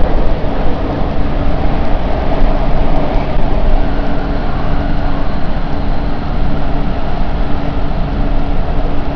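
Canada Line metro train running at speed, heard from inside the car: a steady, loud rumble with a constant motor hum.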